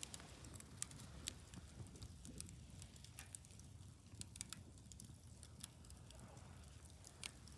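Wood fire crackling, with irregular sharp pops and snaps, several a second at times, over a faint low rumble.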